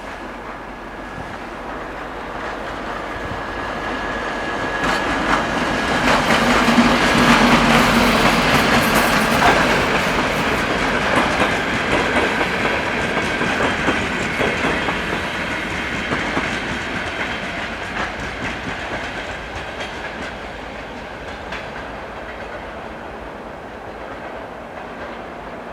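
A passenger train hauled by a TEP70BS diesel locomotive passing by. The locomotive's engine hum swells in about six seconds in, then the carriages roll past with wheels clattering over the rail joints, and the sound slowly fades.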